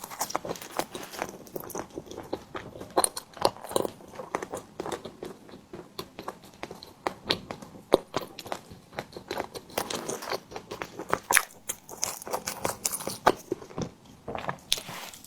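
Close-miked eating sounds of a person chewing a tiger skin dessert: a steady run of sharp mouth clicks and smacks, several a second.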